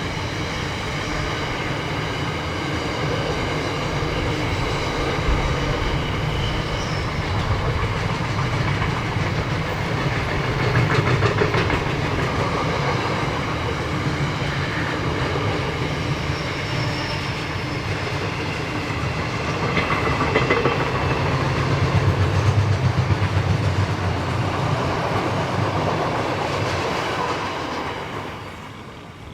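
A train running past, its wheels clattering over the rail joints in a steady clickety-clack, with a long continuous rumble that fades away near the end as the train clears.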